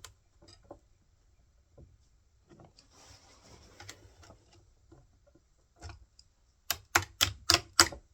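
Chainsaw bar, chain and metal parts being handled and fitted by hand: faint scattered clicks and rustling, then a run of about six sharp metallic clicks, about four a second, near the end.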